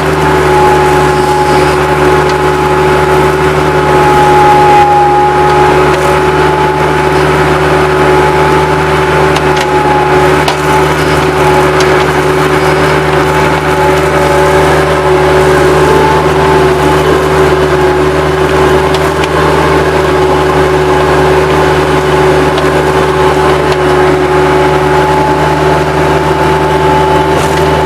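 Bobcat 763 skid steer's diesel engine running steadily under work, with a steady whine over the engine note.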